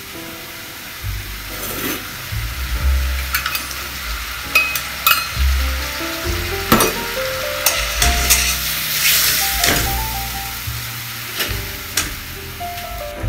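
Diced chicken thigh sizzling in olive oil and white wine in a black steel wok, with sharp clicks of a utensil knocking against the pan as it is stirred and green bell pepper strips go in. Background music plays underneath.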